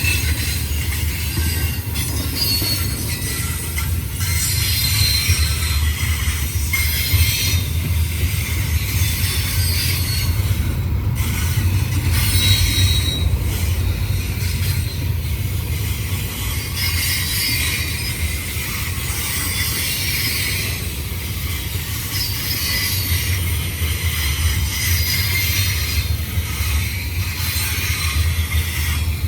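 Double-stack freight train's container cars rolling past: a steady low rumble with a hiss of steel wheels on rail, and a thin high wheel squeal now and then.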